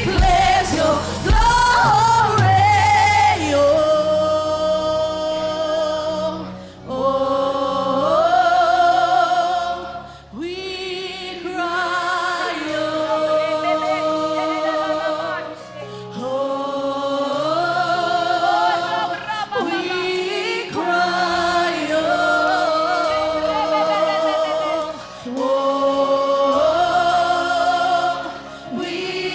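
Gospel worship song sung by a worship team. The voices hold long notes with vibrato in phrases that climb step by step. The fuller band sound with bass and drums drops back about four seconds in, leaving the singing over a lighter accompaniment.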